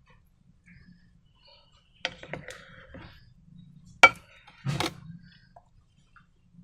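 Slime-making handling sounds: a sharp click about two seconds in and a louder one about two seconds later, each followed by short crackly rustles.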